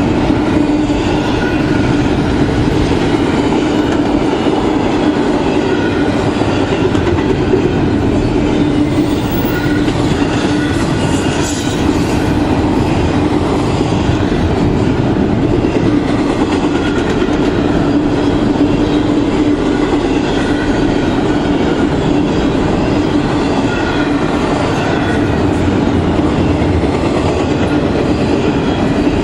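Double-stack container cars of a long freight train rolling past at steady speed. The steel wheels rumble and clatter on the rails, with a steady hum underneath.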